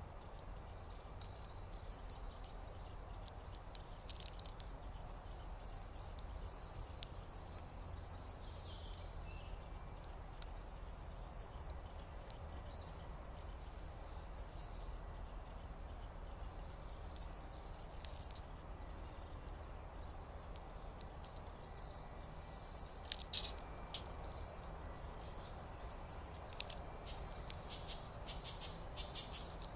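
Small birds chirping and calling again and again, with a few louder sharp calls about two-thirds of the way through, over a steady low rumble.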